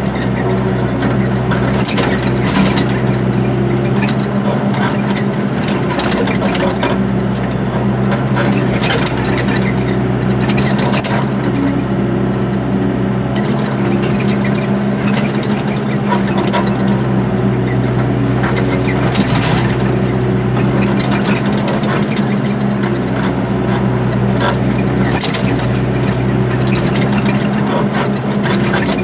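Diesel engine of an excavator running steadily under work, with scattered short knocks and clanks throughout.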